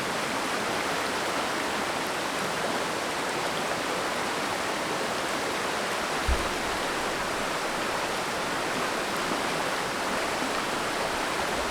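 Mountain stream flowing: a steady, even rush of water, with a brief low thump about six seconds in.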